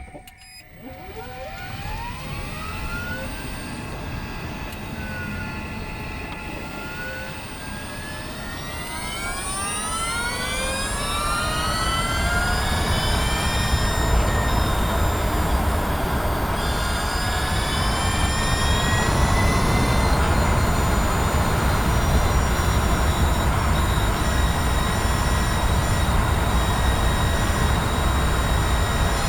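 Mazda MX-30 driveline heard from inside the cabin as the car pulls away. A whine rises in pitch over about the first ten seconds, then holds steady at speed over a loud low rumble. The owner blames the rumble and rattles on a driveline fault that persisted after the reducer was replaced; workshops took the rumble for tyre noise.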